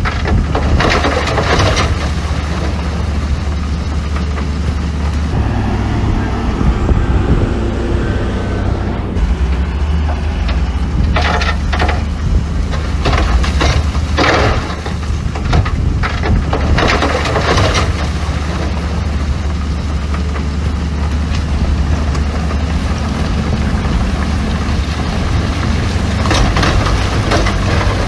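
Heavy diesel earthmoving machinery running steadily with a deep engine drone, overlaid with bouts of crunching and clanking from stone being dumped or pushed, near the start, through the middle and again near the end.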